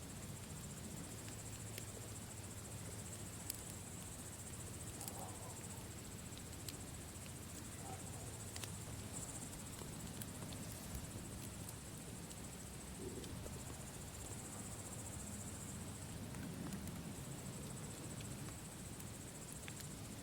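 Campfire crackling with scattered sharp pops, over a steady high-pitched chirring of insects.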